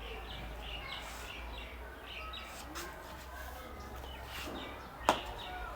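Small birds chirping and twittering in short repeated calls over a low steady hum, with one sharp click about five seconds in.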